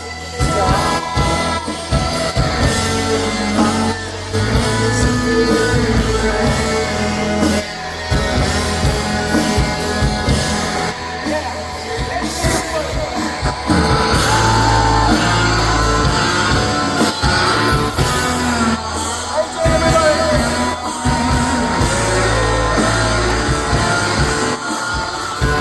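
Live rock band playing, with guitars, drums and singing, as heard from the audience.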